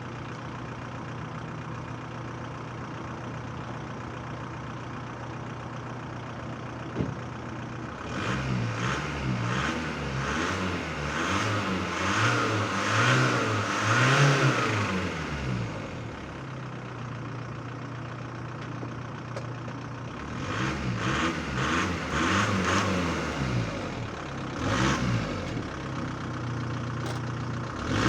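Seat Toledo/Leon mk1's 1.9 TDI 110 four-cylinder turbodiesel idling steadily, then revved up and down in a series of short rises, settling back to idle and revved again twice more.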